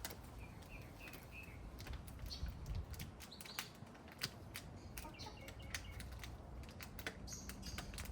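Small birds chirping in short calls, including a quick run of four notes near the start, over scattered sharp clicks and scrapes of garden work.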